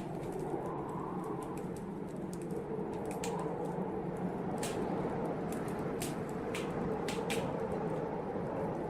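Wood fire in a fireplace crackling, with sharp irregular pops and snaps over a steady low rushing.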